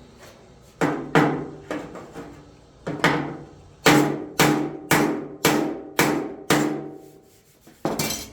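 Hammer blows on a car body panel, bumping up a low area. About a dozen strikes, some two a second, each ringing briefly, with a rougher noisy hit near the end.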